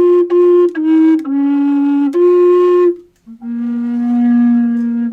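A large, low-pitched flute playing a slow phrase of held notes, stepping down and back up. After a short breath about three seconds in comes one long, lower note.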